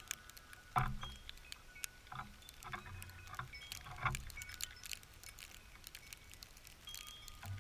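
Small birds pecking and scrabbling at a feeder close to the camera: irregular sharp taps and clicks, with several dull thumps between about one and four seconds in and a few short high tones.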